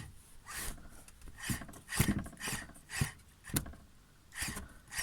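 Worn bearing in the air-conditioning belt idler pulley of a Mercedes Sprinter 906, spun by hand with the belt off. It gives repeated rasping, grinding strokes, about two a second. The dry bearing is the cause of the van's whistle when the engine is under load.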